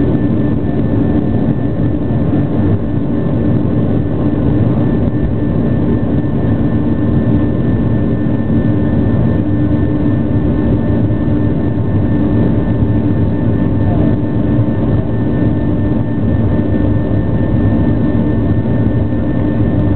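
Jet airliner engines running with a steady, even noise and a few constant tones, holding level with no rise or fall in pitch.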